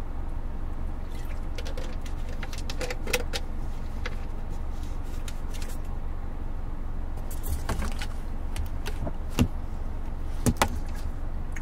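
Hyundai Avante cruising on an expressway, heard from inside the cabin: a steady low road-and-engine rumble mixed with air-conditioning fan noise. Scattered small clicks and rattles come and go, with a few sharper knocks near the end.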